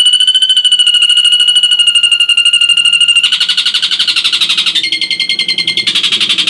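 Ashy drongo singing a rapid, pulsing trill held on one steady high pitch for about three seconds. It then switches to a harsher, buzzier trill, with a different clear trill cutting in for about a second near the end.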